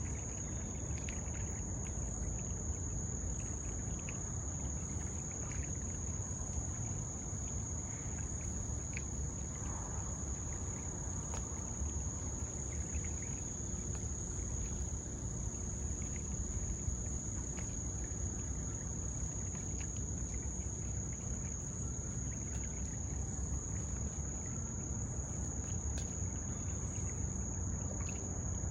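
Steady, unbroken high-pitched chorus of summer insects, over a low, even rumble from wind or the river.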